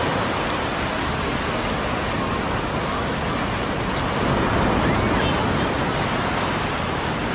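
Steady rush of sea surf breaking along a beach.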